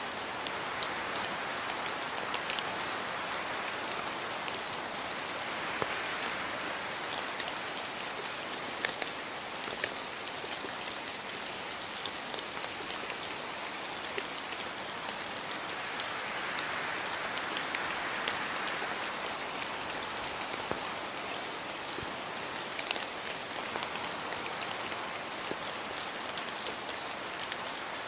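Steady rain falling, an even hiss with many sharp drop ticks scattered through it, swelling a little twice as the downpour briefly grows heavier.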